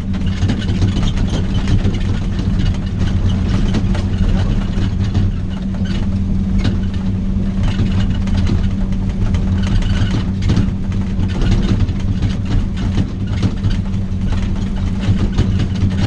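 Vehicle engine running steadily under load, heard from the cab, with rattles and knocks as it travels over a rough, rocky road.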